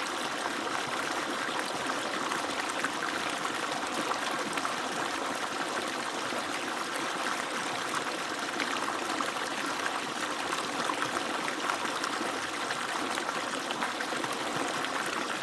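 Water pouring and splashing steadily from the outlet pipe of an agricultural water pump.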